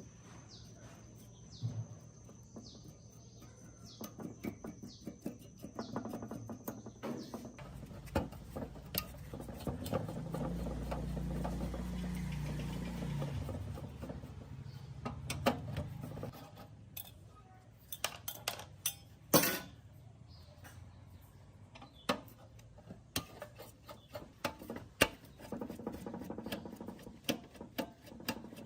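Clicks, knocks and scrapes of hand work on metal parts of a gas water heater being restored, with a low steady hum for about three seconds near the middle.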